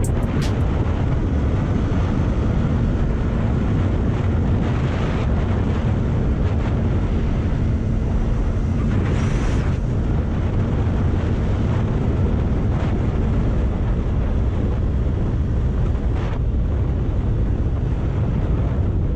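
Wind buffeting the microphone while riding, over the steady running of a Kawasaki Ninja 400's parallel-twin engine.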